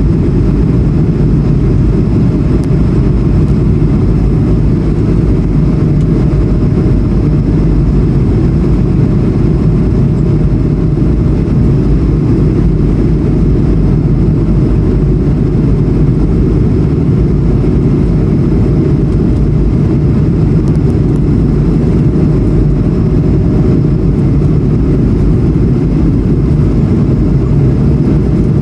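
Cabin sound of an Airbus A220-100's Pratt & Whitney PW1500G geared turbofan engines running steadily: a heavy low rumble with a faint steady whine above it.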